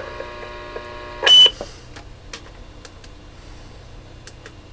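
Galaxy DX-959 CB radio on the bench: a click, then a steady buzzing tone with many overtones for about a second, the beat being tuned out of the radio. It is cut off by a short, loud, high beep, followed by a few scattered light clicks.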